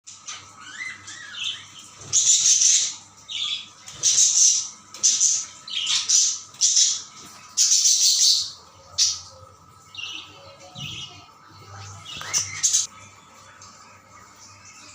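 Cage birds calling: a series of harsh squawks and chirps, loudest and thickest in the first half, thinning out near the end, over a faint steady hum.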